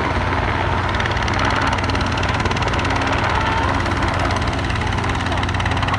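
Helicopter running steadily, its rotor and engine giving a continuous low drone with a fast, even beat.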